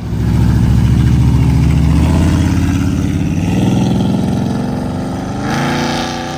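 A car's engine rumbling loudly as it pulls away, then revving up with a rising pitch about five and a half seconds in.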